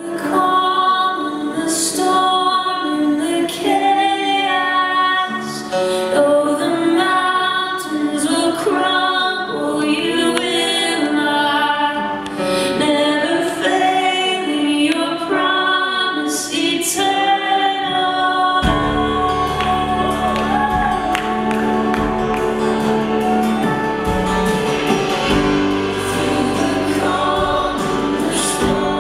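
Live worship music: singing with band accompaniment, with bass and drums coming in about two-thirds of the way through.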